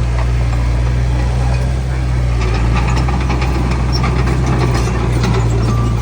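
Heavy diesel engine of earthmoving machinery running steadily at a constant speed, a deep even drone with faint rattles over it.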